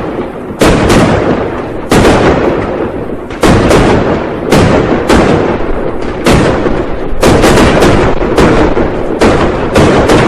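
Firecrackers going off one after another, a loud bang roughly every second at irregular spacing, each leaving an echoing rumble that runs into the next.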